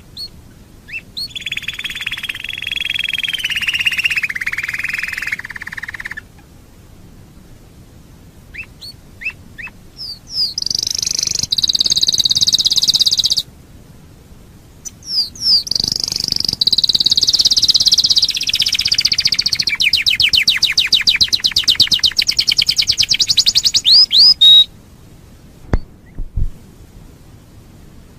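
Domestic canary singing in separate phrases with short pauses between them. The longest phrase, partway through, ends in a rapid, loud trill.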